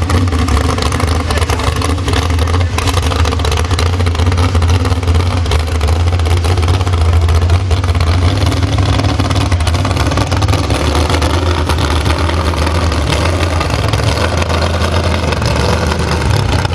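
Mud truck's 572 cubic-inch big-block Chevrolet V8 running loud and steady at an even engine speed.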